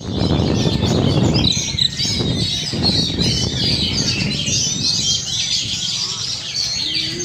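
White-rumped shama (murai batu) in full song: a long, unbroken run of quick, varied high whistles and trills. A low rumbling noise sits under it in the first second and a half.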